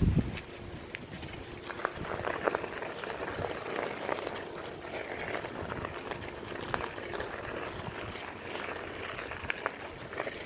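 Riding a bicycle: a steady noise of tyres and moving air, with many small clicks and rattles.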